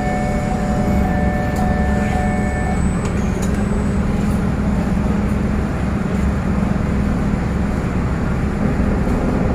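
Loud, steady machinery rumble with a low hum aboard an express ferry. A higher whine cuts off a little under three seconds in.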